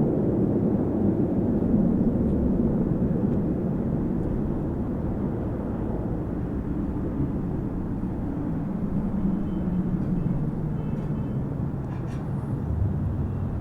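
Boeing 737 MAX 8 jet airliner landing: a low, steady jet-engine rumble, loudest at first and slowly fading, with a slight swell again near the end.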